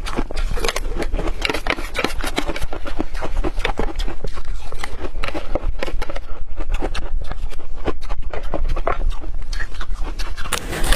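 Hard refrozen ice being chewed: a dense, irregular run of sharp crunches and cracks, with a louder crunch near the end.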